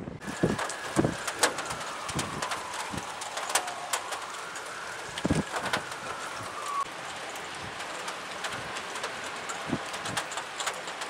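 Rain falling steadily, with drops striking a nearby surface in irregular sharp knocks and clicks. A faint whistling tone slowly falls, rises and falls again in pitch over the first seven seconds or so.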